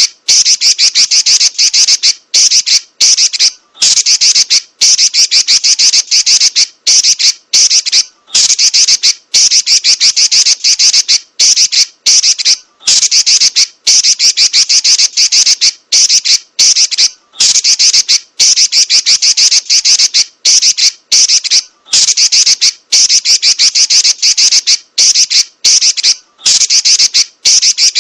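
Female Pekin robin (red-billed leiothrix) giving a shrill, rapid rolling chatter, high-pitched and loud, in long runs broken by brief pauses about once a second.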